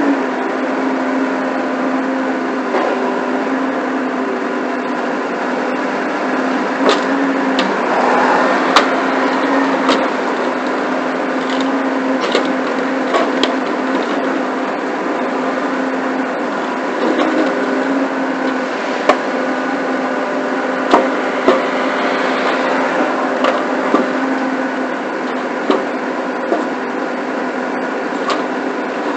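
An engine running steadily, with scattered sharp knocks and clunks throughout.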